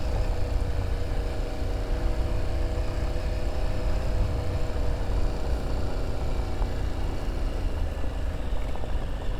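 Motorcycle engine running at a steady pace while riding, with a low rumble of wind on the microphone.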